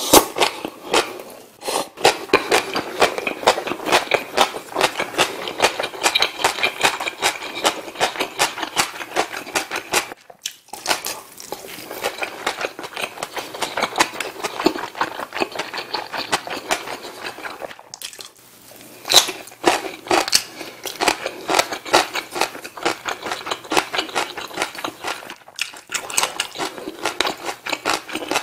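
Close-miked chewing of Korean rice and side dishes, with rapid wet clicks and crunches and a few brief pauses between mouthfuls.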